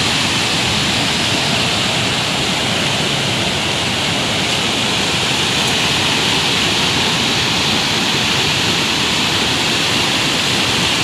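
Rain-swollen mountain river in flood, its water rushing loudly and steadily.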